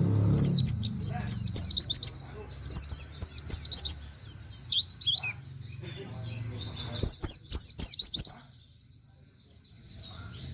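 Pleci (white-eye) singing: rapid runs of quick, high, down-slurred whistled chirps, several bursts separated by short pauses. This is the fast-fire 'nembak' song mixed with 'wit wit' and canary-like notes.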